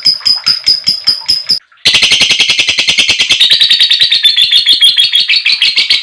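Female lovebird chattering in long runs of shrill, rapid chirps ("ngekek"), the call used to provoke other lovebirds. A run of about five chirps a second breaks off abruptly about one and a half seconds in, and after a short gap a faster, unbroken chatter of about ten chirps a second takes over.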